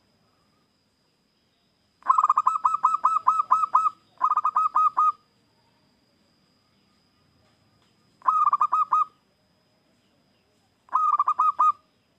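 Zebra dove (perkutut) cooing in four bouts of rapid, evenly repeated notes. The first bout is the longest, about two seconds; the last two are each under a second.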